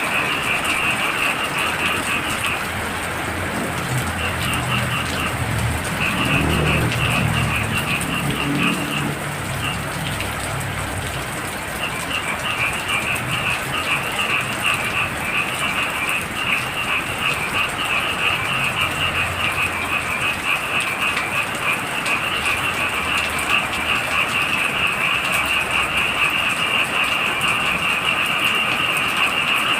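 Heavy rain falling steadily while a chorus of frogs calls in fast, high trills that break off for a few seconds twice in the first half. A low rumble swells and fades about a quarter of the way through.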